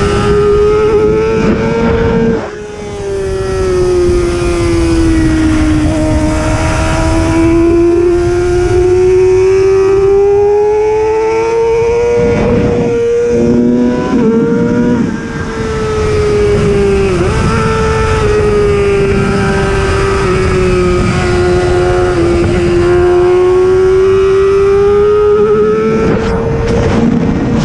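Racing motorcycle engine running hard at high revs, its pitch sweeping slowly up and down, with the throttle briefly shut twice, about two seconds in and about fifteen seconds in, over a loud rush of wind noise.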